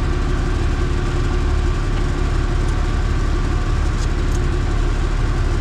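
Off-road 4WD engine idling steadily.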